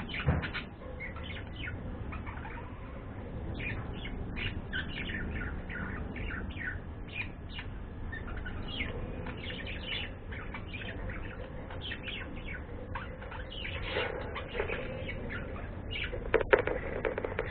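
Pet birds chirping in quick, short calls throughout, with a thump right at the start and a louder burst near the end.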